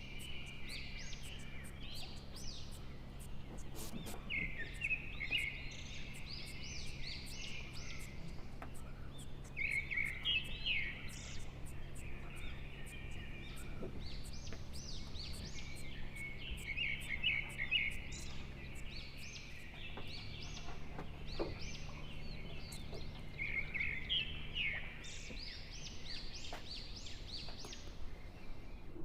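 Birds chirping and singing in repeated short phrases, over a steady low hum.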